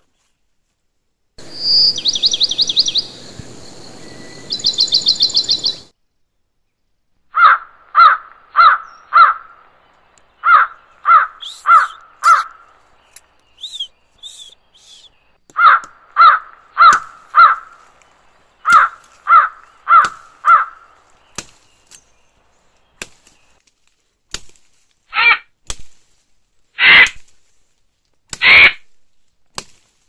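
Loud bird calls. First comes a rapid high trill for a few seconds. Then short, pitched calls repeat about twice a second in runs of four or five, and a few longer, harsher calls follow near the end.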